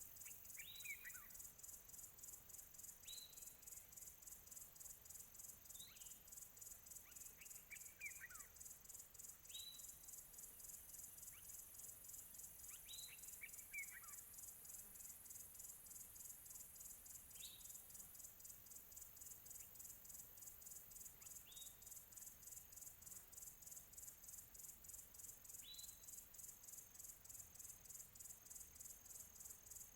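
Faint, distant crickets chirping in a steady, fast pulse, with a bird giving a short high call every three or four seconds, some calls trailing off in a falling note.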